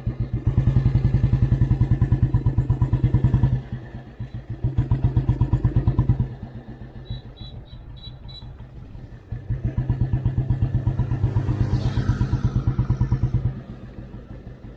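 Old Royal Enfield Bullet Standard 350's single-cylinder four-stroke engine thumping through its exhaust while riding, in an even beat of firing pulses. It gets loud in three stretches and drops quieter in between as the throttle is opened and eased off.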